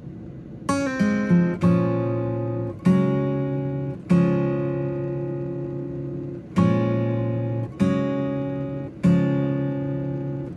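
Acoustic guitar strumming chords in an instrumental intro to a soft folk-pop song. It starts about a second in with a few quick strums, then single chords every second or so, each left to ring out.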